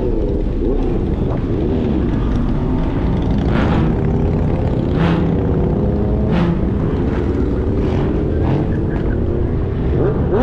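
Car engine running, its pitch rising and falling as it revs, over a steady low rumble, with a few short sharp noises at intervals.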